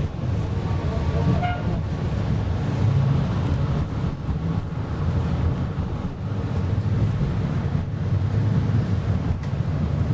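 PESA Fokstrot tram running, heard from inside the car: a steady low rumble of wheels on rails and running gear, with a faint brief whine about a second and a half in.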